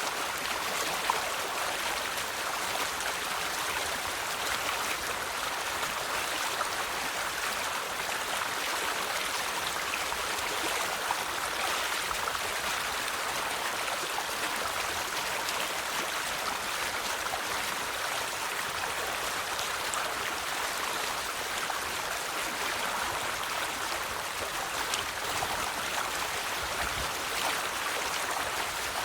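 River water flowing: a steady, even rushing with no letup.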